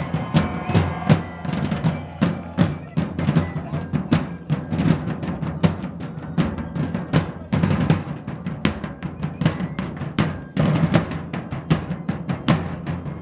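A drum corps playing a fast, driving rhythm on several drums, with deep, booming low drums under a dense run of sharper strokes several times a second.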